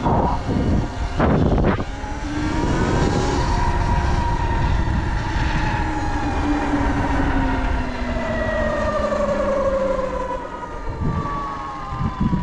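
Sur-Ron electric dirt bike's motor whining, its pitch sliding slowly downward over several seconds, under heavy wind rumble on the microphone from riding.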